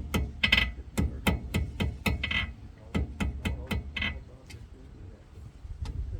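Blacksmith's hammer striking a lead workpiece on an anvil in quick, even blows, about four a second, some with a short metallic ring. The blows stop about four seconds in, leaving a couple of single taps.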